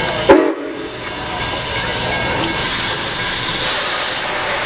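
Nickel Plate Road steam locomotive hissing steam steadily, with one sudden, very loud short burst about a third of a second in.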